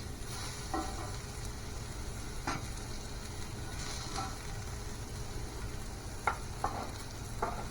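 Food sizzling as it fries in a pan, with a cooking utensil scraping and knocking against the pan about six times.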